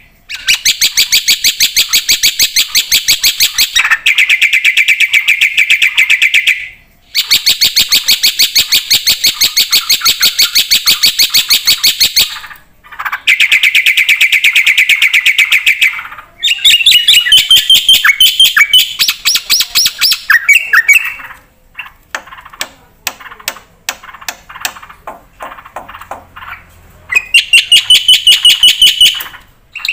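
Black-winged myna (jalak putih) singing loudly, mostly in long runs of fast repeated chattering notes broken by short pauses. In the middle come varied whistled phrases and scattered sharp calls, then another fast run near the end.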